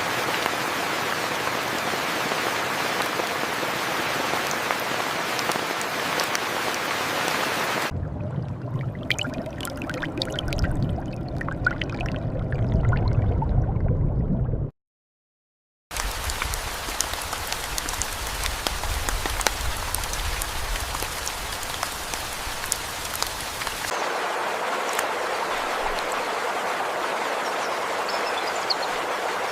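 Steady rain falling, with scattered drops ticking. About a third of the way in the sound turns deeper and rumblier for several seconds, then cuts out to silence for about a second before the rain starts again.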